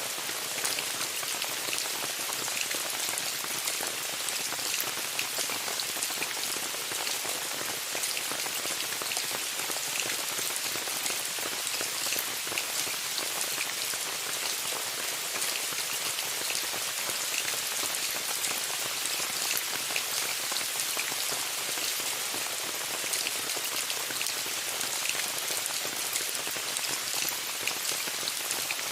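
Steady rain falling on a tent, a constant hiss with many small drop taps scattered throughout.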